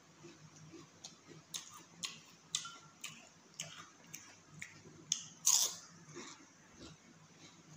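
Chewing and crunching of crisp fried papad. A run of sharp crunches comes about two a second and is loudest a little past halfway.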